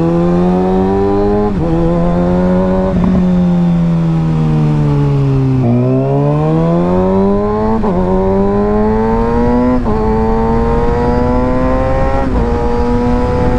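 Sport motorcycle engine heard through a helmet-mounted mic while riding: it pulls through two upshifts, each a sudden drop in pitch, eases off and winds down, then accelerates again through three more upshifts.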